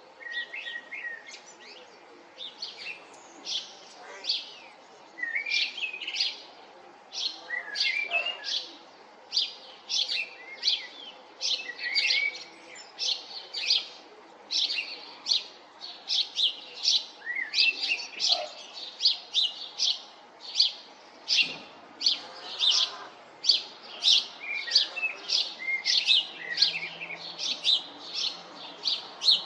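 Male common blackbirds singing, several at once: warbling phrases with many short, high notes that come thicker and louder as it goes on.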